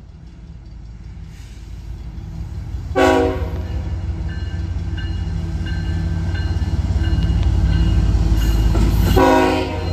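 BNSF diesel locomotives approaching at the head of a stack train, their low engine rumble growing steadily louder. The lead locomotive's multi-note air horn sounds two short blasts, about three seconds in and again near the end.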